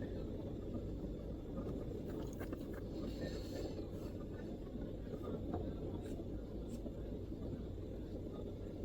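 MacBook keyboard keys tapped now and then: a short run of light clicks about two to three seconds in, then a few single clicks. Under them, a steady low background rumble.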